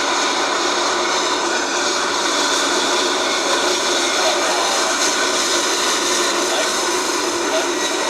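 Steady, loud jet airliner engine noise, a dense roar with a faint whine, holding even throughout.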